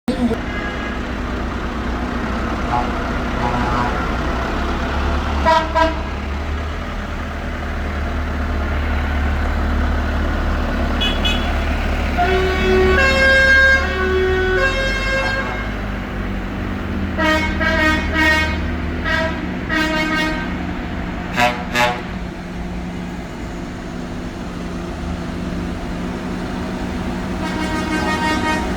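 Tractors in a procession running past with a low engine rumble, their horns tooting again and again in short blasts, with a longer run of toots at differing pitches about halfway through.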